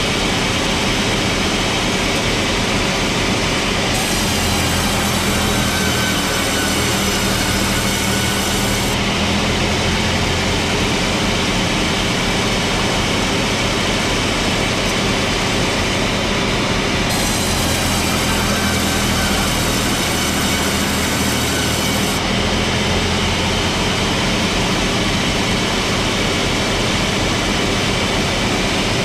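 Large sawmill machinery running steadily. Twice, a higher-pitched saw whine comes in sharply, lasts about five seconds and stops.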